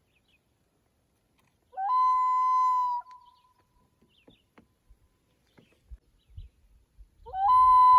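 Common loon wailing twice: each call swoops up into one long, steady, clear note, the second starting about seven seconds in, with a faint trailing echo after each.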